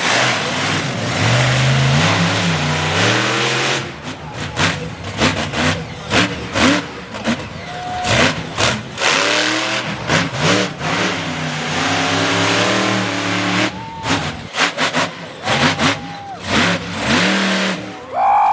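Monster truck engine revving hard, the pitch climbing and falling, with a run of short, sharp throttle blasts through the middle and latter part.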